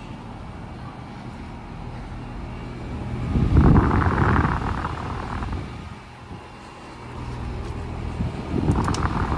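Outdoor heat pump condensing units running in cooling mode: a steady compressor and fan hum. Two louder swells of rushing noise rise and fade over it, one about three seconds in and another near the end.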